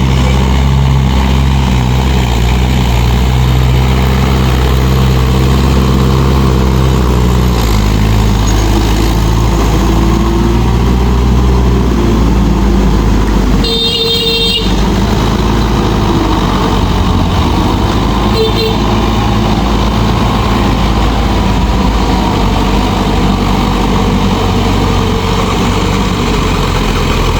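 Mahindra 585 DI tractor's diesel engine running steadily, its note shifting about a quarter of the way through. A horn toots once for about a second near the middle, and a shorter, fainter toot comes a few seconds later.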